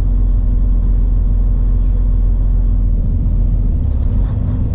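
Semi truck's diesel engine and road noise heard from inside the cab while driving, a steady low drone with a constant hum.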